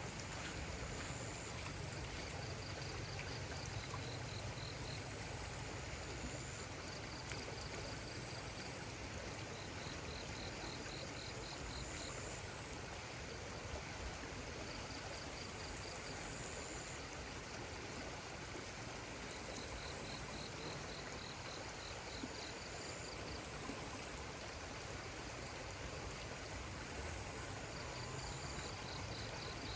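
Steady rush of running water, like a small stream, with short trains of rapid high chirps that recur every few seconds, and now and then a brief high whistle-like tone.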